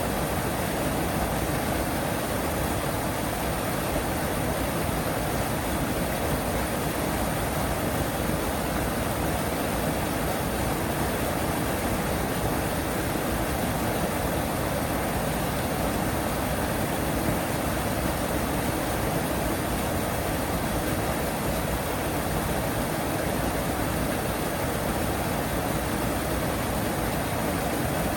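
Steady, even rush of running water at a pond, with no distinct duck calls standing out.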